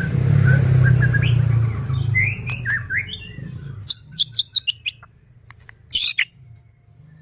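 White-rumped shama singing: short whistled notes and rising slurs, then from about four seconds a quick run of sharp clicking, crackling notes mixed with high whistles. A low steady hum sits under the first two seconds and is the loudest sound there.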